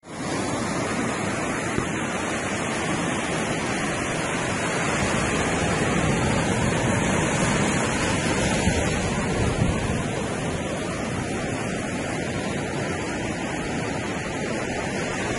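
Steady rush of wind and surf on a beach, with wind buffeting the microphone.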